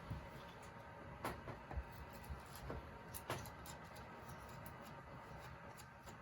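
Carving knife working wood by hand: a few faint small clicks and soft scrapes as the blade cuts.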